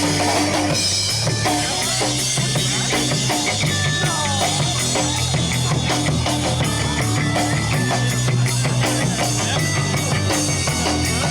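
Live rock band playing an instrumental passage between sung verses: guitar, bass and drum kit with a steady drumbeat, no vocals.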